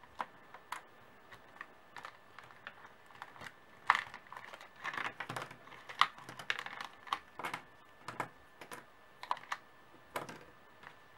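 Light, irregular clicks and taps of thin magnetic pieces being taken out of a book's storage compartment and handled.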